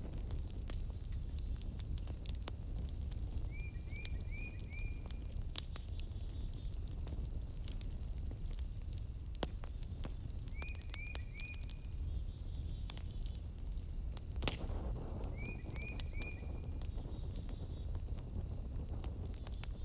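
Wood fire crackling in a fireplace, with irregular sharp pops over a low steady rumble. A steady high insect-like drone runs underneath, and three times a creature gives a quick run of three or four short rising chirps.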